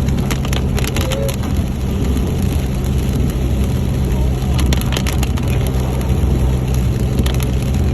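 Steady low drone of a vehicle being driven, with scattered short sharp clicks and knocks through it.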